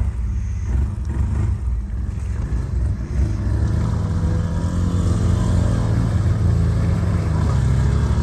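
Quad bike (ATV) engine running under load, its note growing stronger and steadier from about four seconds in.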